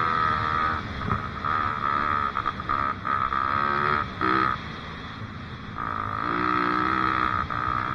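Dirt bike engine revving up and down while riding, its pitch rising and falling with the throttle. It eases off for about a second past the middle, then picks up again.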